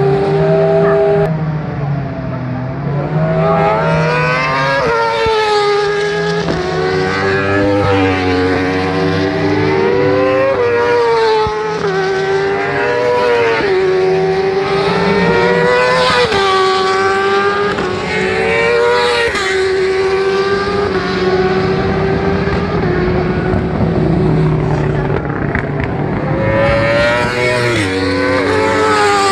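Racing superbikes' inline-four engines (factory Honda CBR1000RR and Yamaha YZF-R1) running at high revs, their exhaust notes climbing in pitch and dropping back again and again as they shift, several engines heard at once.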